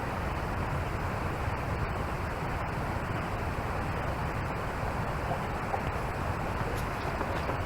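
Steady rushing wind noise on the microphone, with no clear bird calls.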